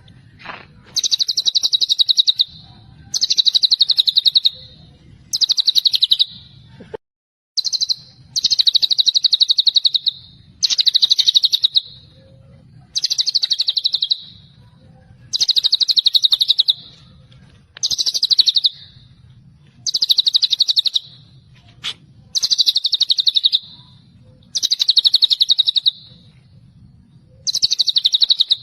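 White-rumped shama (murai batu) singing its 'celilin' burst: a loud, rapid, high trill about a second long, repeated roughly every two seconds, about a dozen times.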